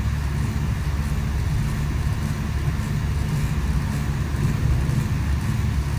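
Volvo FE 320 lorry's diesel engine running steadily as the truck drives, a constant low rumble with road noise over it.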